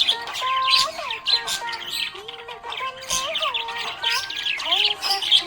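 Budgerigars chirping and chattering in a dense, fast stream of high chirps, over a simple melody.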